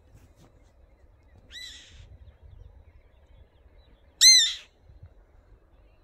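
A bird calls twice, each a short call that rises then falls in pitch. The second call, near the end, is much louder than the first.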